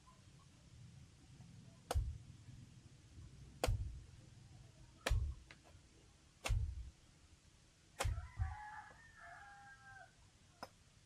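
Six heavy, sharp thuds about a second and a half apart, the last two in quick succession, like chopping blows. A chicken calls just after the last blow.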